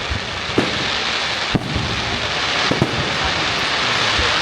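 Fireworks display: sharp bangs every second or so over a dense, continuous crackle.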